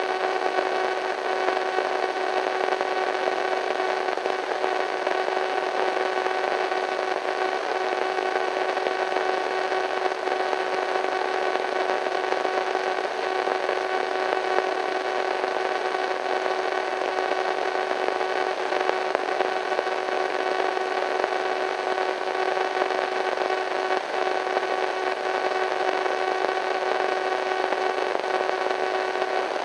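Radio static: a steady hiss of white noise with several steady humming tones running through it.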